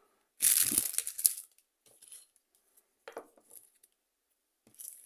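Plastic packaging crinkling and rustling as the kit is handled: one loud burst of about a second near the start, then faint scattered rustles and small clicks.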